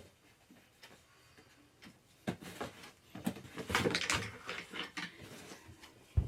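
Scattered knocks, clicks and rustling from objects being handled, busiest through the middle, with one sharp thump near the end.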